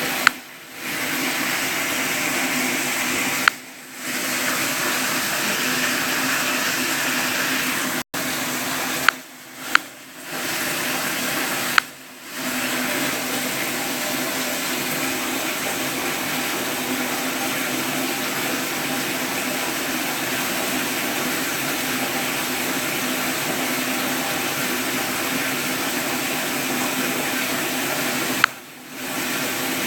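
A steady rush of running water, broken by about six sharp clicks at uneven intervals. After each click the water sound drops away for a moment.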